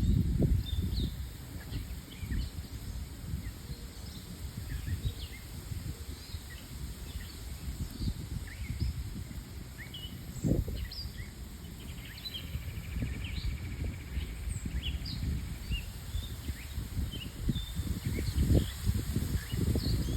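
Small birds chirping and calling on and off, short high notes scattered throughout, over an uneven low rumble on the microphone that swells in bursts, loudest at the start and near the end.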